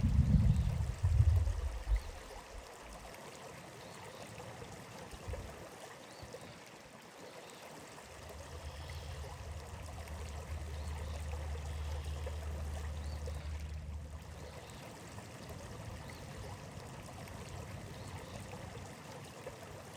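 Stream water running and trickling steadily. Heavy low thumps in the first two seconds, and a low rumble underneath from about 8 to 14 seconds in.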